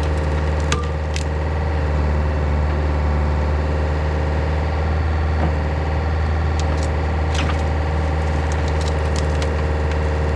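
Yanmar VIO50 mini excavator's diesel engine running steadily, with scattered sharp snaps and cracks of wood, a few in quick succession in the second half.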